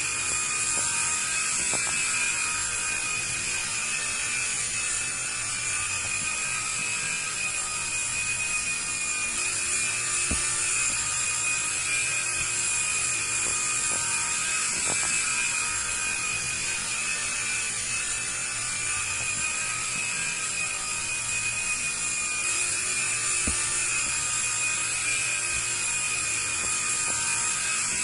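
Small IR remote-control toy helicopter's electric motors and rotors running, a steady high-pitched whine.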